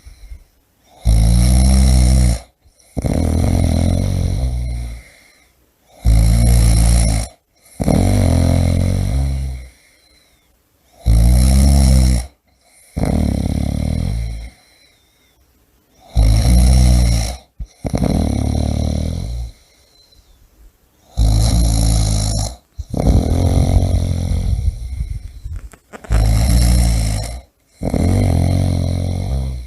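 A person snoring loudly in a steady rhythm, about one breath cycle every five seconds, each a short snore followed at once by a longer one.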